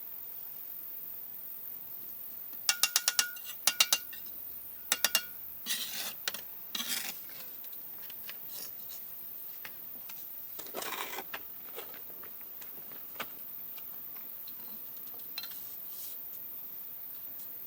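Hard metal clinks with a ringing tone in three quick groups of strikes, followed by a few rough scraping sounds.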